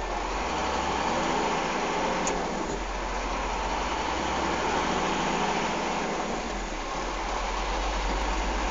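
Truck engine running steadily with a constant low drone.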